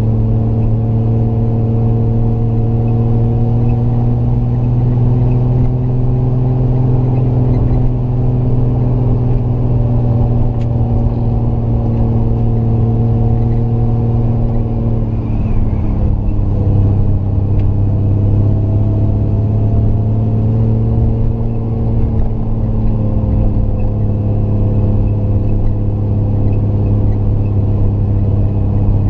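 Triumph GT6 Mk2's straight-six engine pulling uphill under load, heard from on board. The engine note rises slowly, dips briefly about halfway in, then climbs again.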